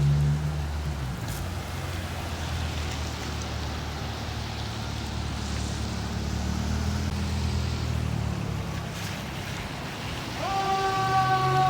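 Steady low rumble of a heavy vehicle's engine and road noise. Near the end a fire truck siren starts up, rising quickly and then holding a slowly falling tone.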